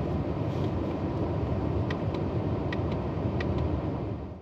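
Heavy rain drumming steadily on a car's roof, heard from inside the car, with a few sharper drop ticks; it fades out right at the end.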